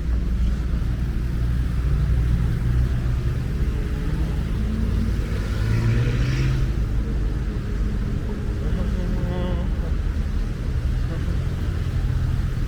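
Road traffic on a wet city street: car engines running with a steady low rumble, and one vehicle's tyres hissing past about six seconds in.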